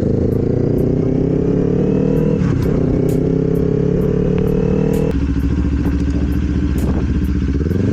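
Motorcycle engine pulling under load with a passenger aboard; its pitch climbs slowly for about five seconds, then drops as it shifts up a gear and runs on steadily.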